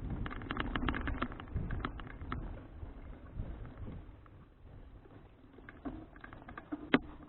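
Folding bicycle ridden with an action camera mounted on it: rapid rattling clicks for the first two and a half seconds, then quieter, with a low wind rumble on the microphone and one sharp click near the end.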